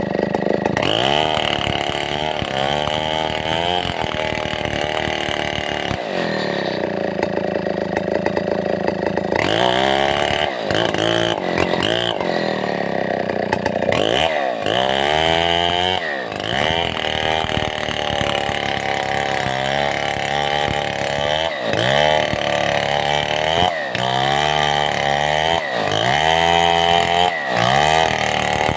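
Stihl 070 two-stroke chainsaw running hard while cutting timber. Its engine pitch is fairly steady at first, then from about ten seconds in rises and falls over and over as it is throttled and loaded in the cut.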